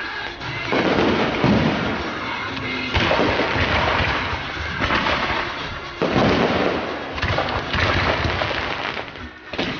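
Fireworks display going off: sudden bangs every few seconds, with dense crackling between them and music playing along.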